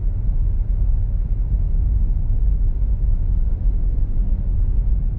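Steady low rumble of an SUV driving on a snow-covered road, heard from inside the cabin: road and engine noise with no change.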